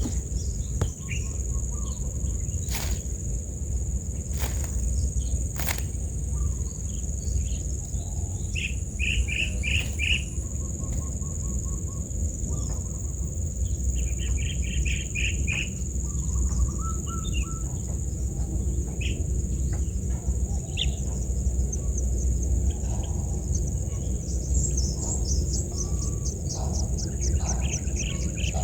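Wild birds chirping in short runs of quick repeated notes, over a steady high-pitched insect drone and a constant low rumble of wind. A few sharp clicks come in the first few seconds.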